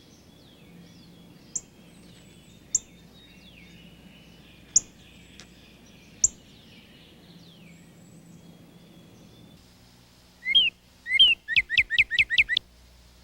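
Backyard songbirds calling, with faint birdsong throughout. Four sharp, high, falling chips come a second or two apart. Near the end, a louder series of quick slurred whistled notes speeds up into a rapid run.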